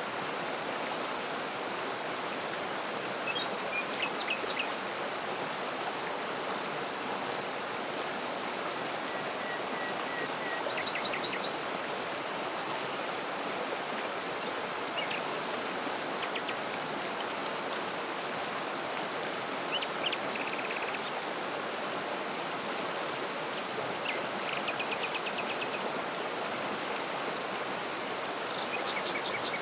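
Waterfall water rushing steadily, with small birds calling over it every few seconds: short high chirps and quick trills, the longest trill about two thirds of the way in.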